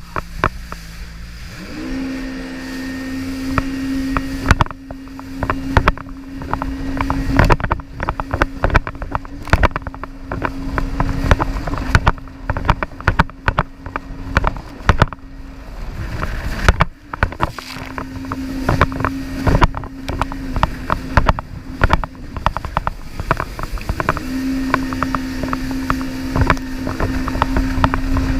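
Jet ski engine running at a steady pitch, easing off twice for a second or two, with many sharp knocks and splashes throughout.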